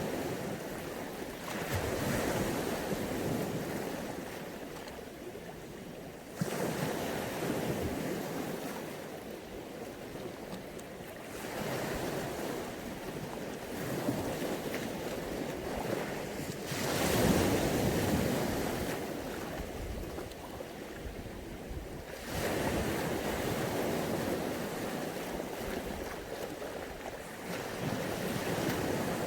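Mediterranean sea waves breaking on the shore, a rushing wash that swells and ebbs about every five seconds. The biggest wave comes a little past halfway.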